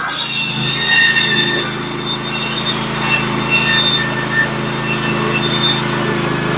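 Norwood HD36v2 portable bandsaw mill running at a steady engine speed, with a high, wavering squeal from the band blade as it cuts through a log.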